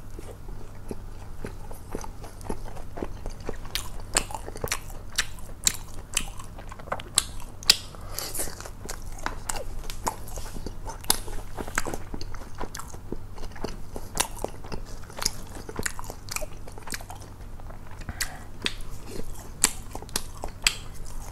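Close-miked chewing of McDonald's chicken nuggets, with many irregular crisp crunches of the breaded coating.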